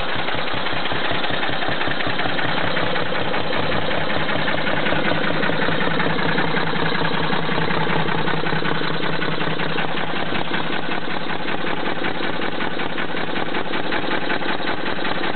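Petter stationary engine driving an air compressor, running steadily with a rapid, even beat.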